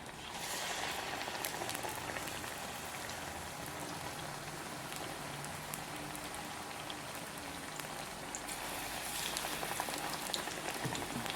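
Batter-coated potato slices deep-frying in hot oil in a pan: a steady sizzle dotted with small crackles, swelling a little just after the start and again near the end.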